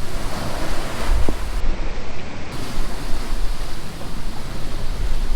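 Hurricane wind blowing hard in gusts, buffeting the microphone with a deep rumble, over waves washing against the anchored boat.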